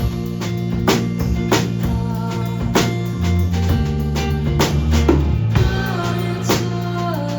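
Live band playing a song: a steady drum beat with bass and guitar, and a melody line that steps downward near the end.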